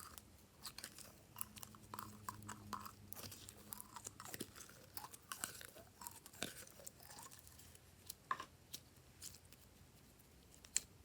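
Glossy slime being worked, giving quiet, irregular sticky clicks and small crackling pops, with a few sharper pops near the end.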